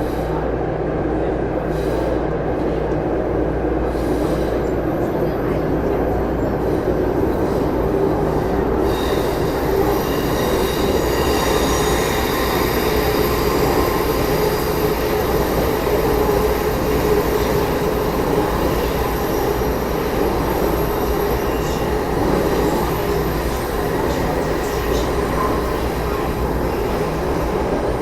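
Taipei Metro C301 subway car (Bombardier IGBT-VVVF traction) running, heard from inside the car: a steady rumble of wheels and motors. Thin high-pitched tones join in about nine seconds in.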